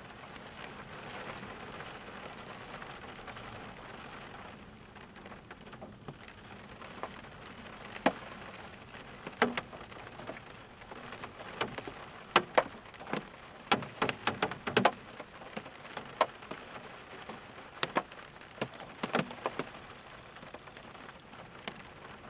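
Steady rain hiss with many sharp, loud drop hits close by, coming thickest through the middle stretch.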